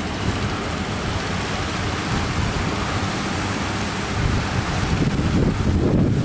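Strong wind buffeting the microphone over the rush of surf, with heavier gusts near the end.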